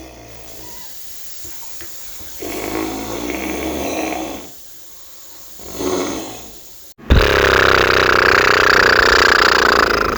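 Animal calls from a prehistoric creature: a call lasting about two seconds, a short call about six seconds in, then a loud, sustained call that starts abruptly about seven seconds in and lasts about three seconds.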